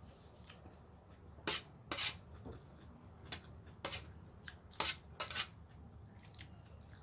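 Close-up eating sounds of a raw vegetable salad: about half a dozen short, sharp crunches and clicks at uneven intervals, the loudest about one and a half to five and a half seconds in.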